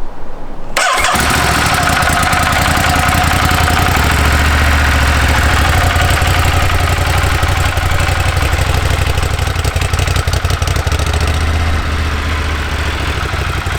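Ducati Monster 1200R's L-twin engine on its stock exhaust starting up just under a second in and then idling, with a steady low rumble that eases a little near the end. The owner says this stock exhaust sounds terrible.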